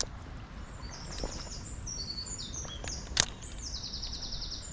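A songbird singing outdoors: a run of high chirping notes, ending in a fast trill of about ten notes a second. A single sharp click about three seconds in.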